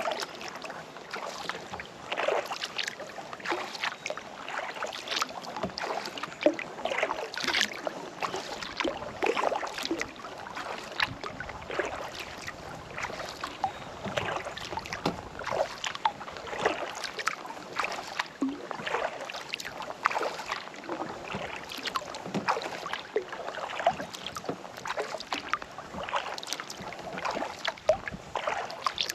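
Kayak paddling on calm water: many small, irregular splashes and drips from the paddle blades. The sound starts abruptly out of silence.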